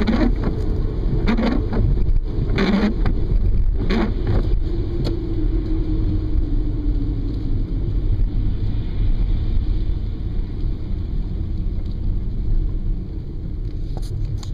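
Car cabin sound while driving in the rain: a steady low road-and-engine rumble. In the first few seconds a short knocking sweep repeats about every second and a half.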